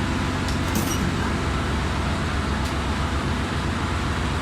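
Steady engine-room machinery drone, with a few sharp clicks and a brief hiss about a second in as compressed air is put to the reassembled pneumatic pilot valve.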